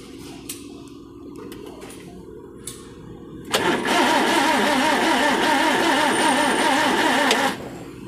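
A faint low hum, then about three and a half seconds in a Daihatsu Move's starter cranks the engine for about four seconds without it catching, and stops abruptly. This is a crank-no-start: there is no spark at the plug, which the mechanic puts down to water getting into the ECU.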